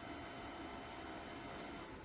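iRobot Roomba 104 robot vacuum running, a steady hiss of its suction fan with a faint whine. Right at the end the sound starts to drop away, like the motor powering down.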